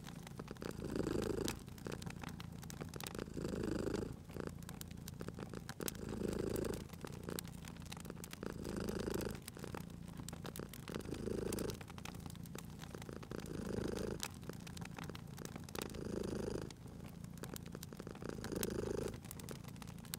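Domestic cat purring, swelling and easing about every two and a half seconds with its breaths, over the crackling and popping of a wood fire in a fireplace.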